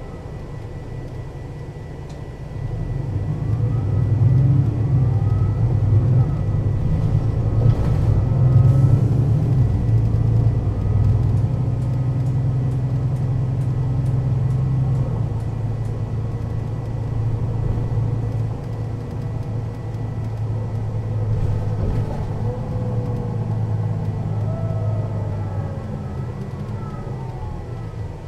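Mercedes-Benz O 530 Citaro city bus's diesel engine pulling hard from about two seconds in, changing up through its ZF automatic gearbox, with a gear whine that rises and falls with each gear. It eases off toward the end.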